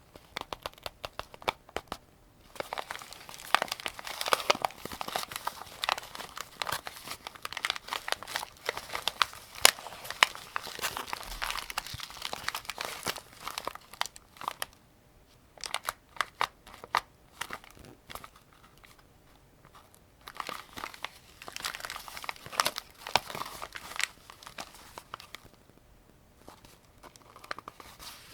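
Close handling of AK-47 cartridges and a 75-round drum magazine: many sharp clicks over rustling, in stretches broken by short pauses.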